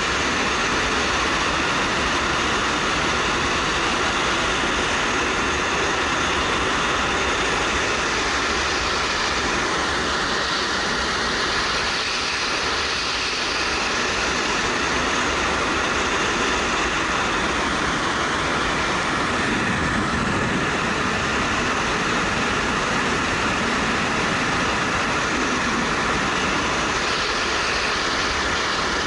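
Steady wind rush over a helmet-mounted action camera on a moving motorcycle, with the 2013 Suzuki GW250's engine running underneath.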